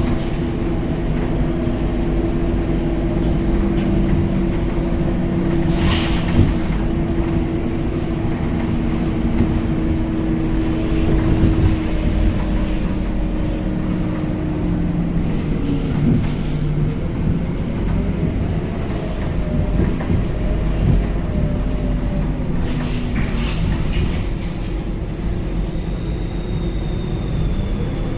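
Scania K270UB city bus heard from inside the cabin while driving: a steady engine and drivetrain drone over road rumble, its pitch shifting slowly. There are a couple of sharp knocks or rattles, once about six seconds in and again a few seconds before the end.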